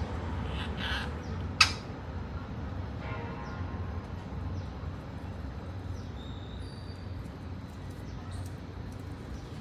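Pet Indian green parrot giving a few short harsh calls, the sharpest about a second and a half in, then faint short chirps, over a steady low hum.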